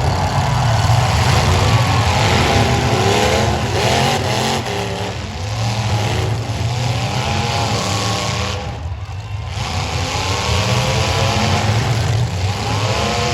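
Several demolition derby car engines running and revving hard together, their pitch rising and falling again and again over a steady low rumble.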